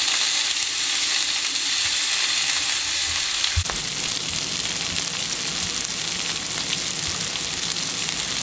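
Sliced bell peppers and onions sizzling steadily in olive oil in a hot Finex cast-iron skillet, stirred with a wooden spatula at the start. A single brief low thump about three and a half seconds in.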